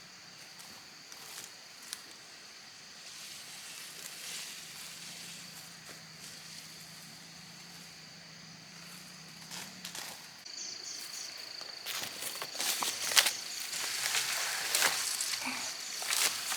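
A steady, high insect trill throughout. From about twelve seconds in, irregular rustling and crackling of dry leaves and twigs grows louder than the insects.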